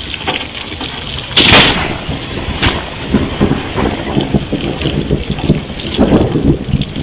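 Thunderstorm with heavy rain hissing throughout, a loud, sharp thunderclap about a second and a half in, and rolling rumbles after it.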